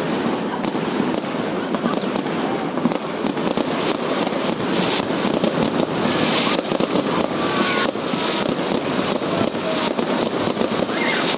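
Many fireworks going off at once: a continuous, dense crackle of overlapping bangs and pops with no pauses.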